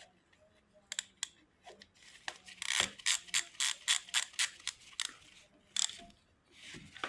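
Hand ratchet wrench clicking as its handle is swung back and forth on a bolt: an even run of sharp clicks, about three or four a second, with a few single clicks before and after.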